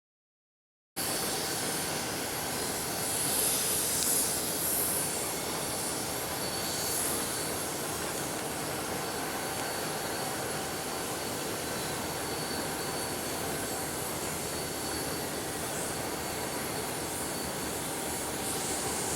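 Diesel freight locomotives running in a rail yard: a steady drone with a faint high whine, starting abruptly about a second in.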